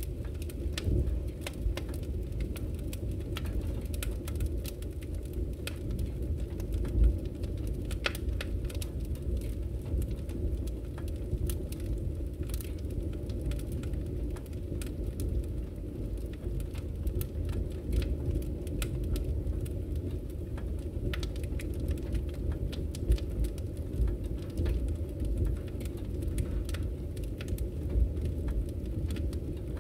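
Wood fire crackling in a fireplace: frequent small snaps and a few louder pops over a steady low rumble of the burning fire.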